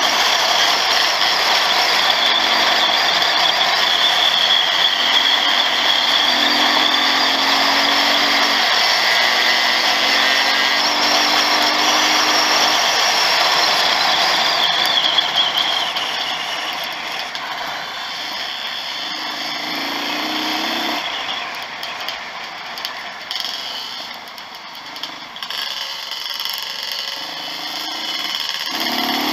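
Dirt bike engine running under load, its revs rising and falling through gear changes, over heavy wind rush on the camera. It runs loud and steady for about the first fifteen seconds, then eases off and revs up and down in shorter bursts.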